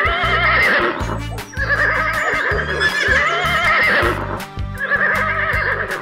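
Horse whinnies, three quavering calls in a row, laid over background music with a steady bass beat.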